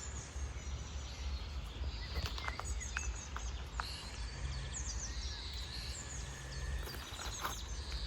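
Small birds chirping and twittering in short bursts over a steady low rumble.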